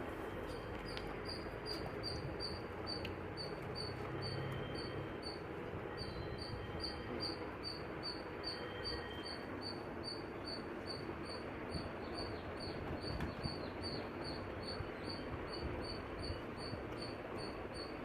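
An even hiss of background noise, with a cricket chirping steadily above it at about three to four short high chirps a second.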